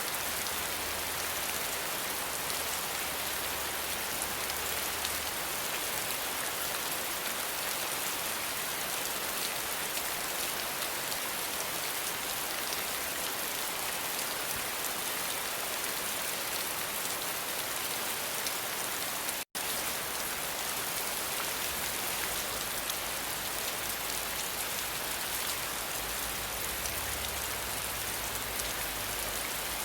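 Steady rain falling on a surface, an even hiss with many small drop patters. It cuts out for a split second about two-thirds of the way through, then carries on unchanged.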